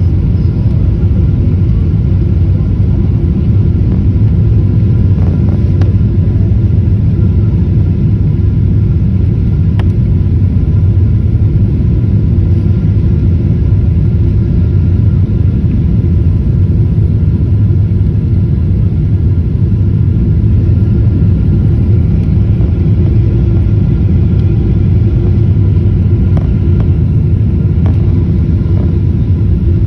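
Jet airliner's engines and rushing airflow as the plane comes in to land: a loud, steady rumble with faint, steady whining tones above it.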